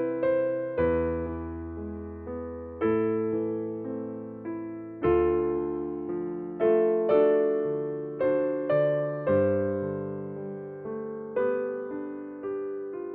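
Background music: slow, gentle electric piano chords, each struck and left to ring out, about one every one to two seconds.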